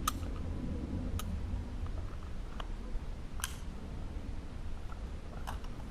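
A handful of faint, sharp clicks, about five spread over several seconds, over a steady low rumble.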